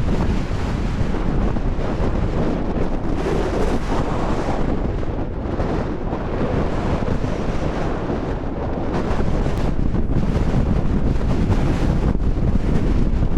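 Strong wind buffeting an action camera's microphone, a dense low rumble that eases a little in the middle and picks up again after about nine seconds.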